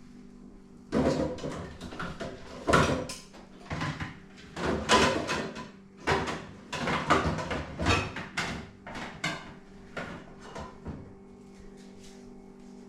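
Kitchen drawers, cupboards and utensils being handled: a string of irregular knocks and clatters starting about a second in and dying away near the end.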